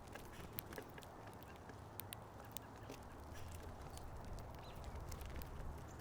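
Small birds feeding at a seed feeder: scattered sharp clicks and taps from pecking and landing, over a steady low hum.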